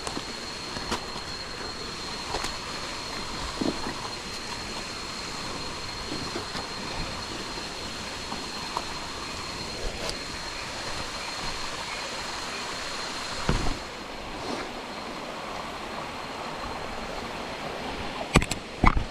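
Jungle creek water rushing steadily, with a thin steady high whine over it. Scattered footstep crunches and clicks run through, with louder knocks about two-thirds of the way in and near the end.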